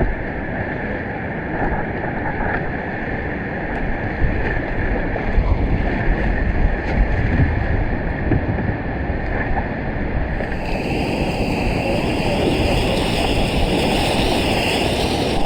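Rushing whitewater of a class III river with wind buffeting the microphone, a steady noisy wash; about ten seconds in it turns brighter and hissier.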